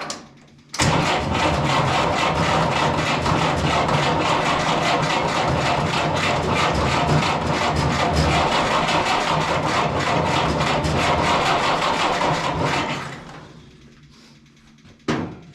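Starter cranking an Oliver 66 diesel tractor engine for about twelve seconds, with an even, rapid beat of compression strokes. The engine does not catch, because it is still cold, and the cranking stops about thirteen seconds in.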